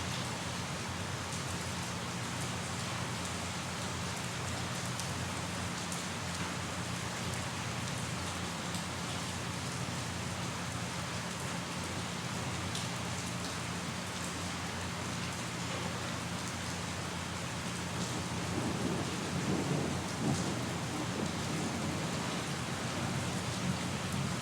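Steady rain falling, with a low rumble of thunder swelling and fading about three-quarters of the way through.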